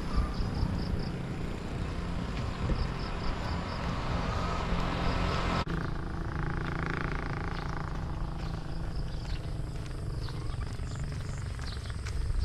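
A motor engine running steadily, with a swell of noise about six to seven seconds in.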